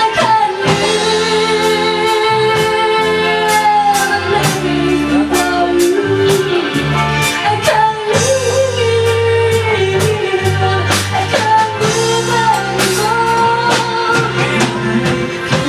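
Live band music: a sung melody with long held notes over a drum kit keeping a steady beat and guitar.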